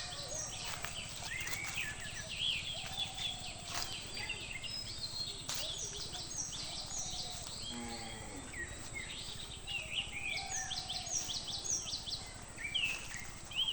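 Several small birds chirping, in quick runs of short, high, falling notes that overlap one another, over a steady low background hum. A brief lower call sounds about eight seconds in.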